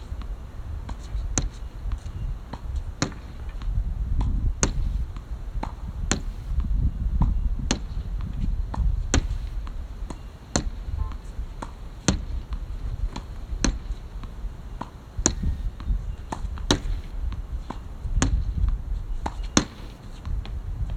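Badminton rackets striking a shuttlecock in a steady exchange: a sharp crack about every one and a half seconds, with fainter hits between, over a low rumble.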